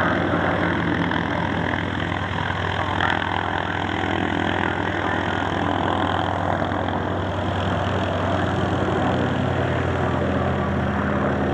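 An engine running steadily at low speed: an even low hum over a wash of noise.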